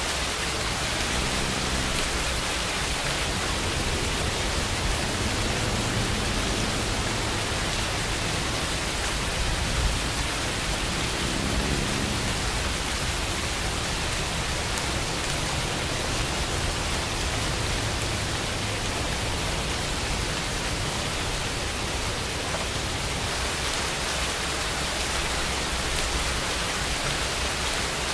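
Steady, heavy rain falling, an even hiss. Faint low sounds come and go beneath it in the first twelve seconds or so.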